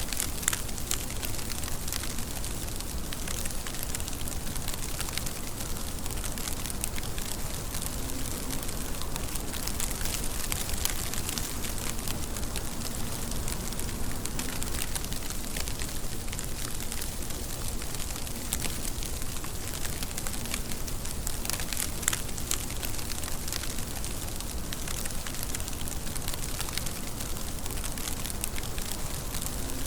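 Steady rain falling, an even hiss with sharp little drop ticks scattered through it.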